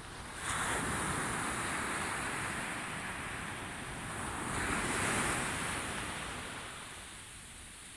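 Sea waves breaking and washing onto the shore: a surge of surf about half a second in, swelling again around five seconds, then ebbing away near the end.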